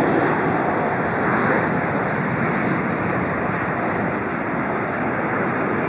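Jet airliner engines heard as a steady, even rushing noise.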